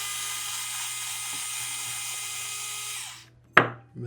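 Electric precision screwdriver with a 1.5 mm hex bit spinning, backing out a small screw, with a steady high-pitched whine that runs about three seconds and then stops. A sharp click follows shortly after.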